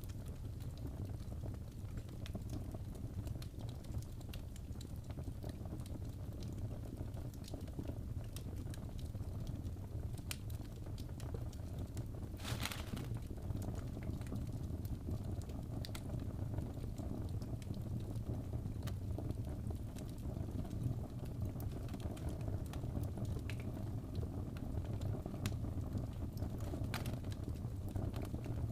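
Fire burning in a fireplace: a steady low rumble with scattered sharp crackles and pops, and one louder, longer crackle about twelve seconds in.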